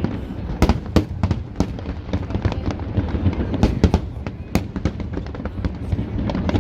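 Fireworks display: aerial shells bursting in irregular succession, with sharp bangs and crackling over a constant rumble of echoing booms.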